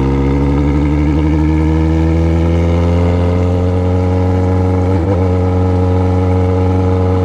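Yamaha XJ6's inline-four motorcycle engine through a 4-into-1 exhaust with just the pipe, running steadily under way with its pitch slowly rising. About five seconds in, the pitch dips briefly and then recovers.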